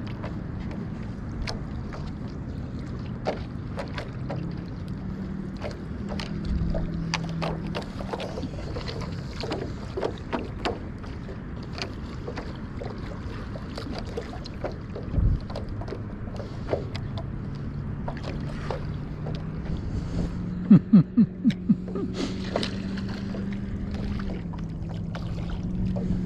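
Paddle strokes through shallow water, with drips and small splashes against light wind, under a low steady hum. About two-thirds of the way through comes a quick run of about five loud pulses.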